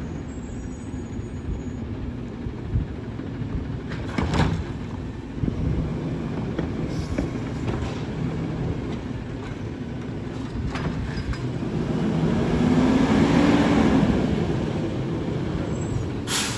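McNeilus Autoreach garbage truck's engine running, with sharp knocks about four seconds in and near the end. Around three-quarters of the way through the engine revs up and back down for a couple of seconds.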